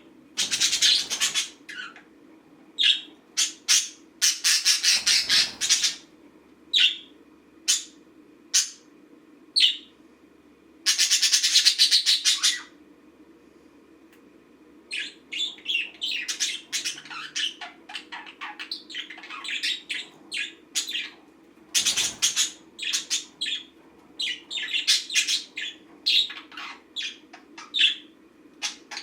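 Budgerigar chattering and squawking. In the first half come several loud, harsh bursts of a second or two with short chirps between them. In the second half it keeps up a long run of quick chirps and warbles.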